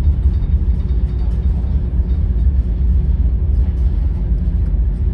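Steady low rumble with a faint, even hum: the ferry's engines and machinery running at cruising speed.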